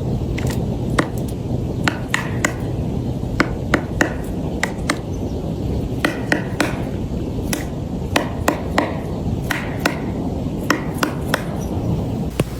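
A bird pecking, irregular sharp knocks on wood, often in quick pairs or short clusters, over a steady low rumble.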